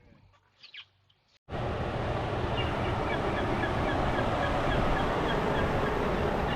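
Loud steady rush of wind buffeting the microphone outdoors on a windy day, cutting in suddenly about a second and a half in after a faint, quiet stretch. Faint quick chirps repeat over the rush.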